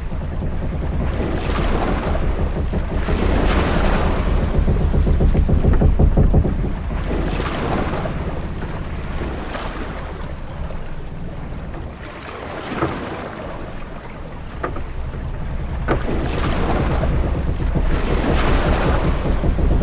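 Sea ambience aboard a ship: waves washing and surging in swells every couple of seconds over a steady deep rumble and wind.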